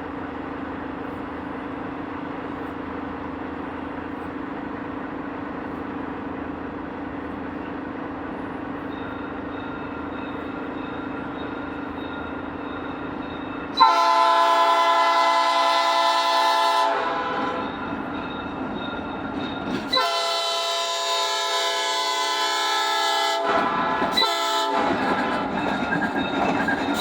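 Diesel switcher locomotive running steadily, then its air horn sounding: a sudden long blast about 14 seconds in, then more horn from about 20 seconds in with a short gap, and again near the end.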